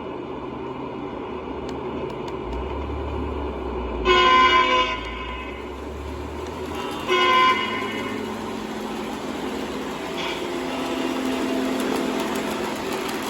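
O-gauge model diesel locomotive's electronic sound system blowing its horn in two short blasts, about four seconds in and again about three seconds later, over the steady noise of model trains running on the track.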